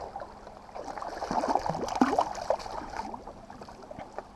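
Water gurgling and splashing lightly against a kayak's hull, in small irregular blips with a few faint clicks.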